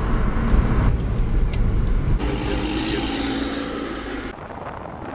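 A car running, with a heavy low rumble, in several cut-together clips. The sound changes abruptly about two seconds in and drops to a quieter level near the end.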